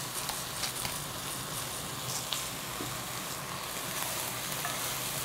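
Diced chicken thighs with carrot, onion and celery frying in oil in a Dutch oven: a steady sizzle, with a few faint ticks.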